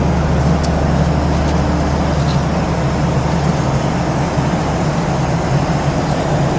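Steady low rumble and noise inside a moving vehicle, with an even low hum throughout.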